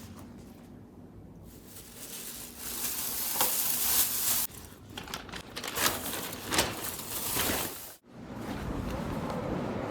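Sea waves washing onto a sandy beach: a hissing rush of surf that builds a couple of seconds in, with a few louder surges. It cuts off abruptly near the end and comes back as a steadier wash.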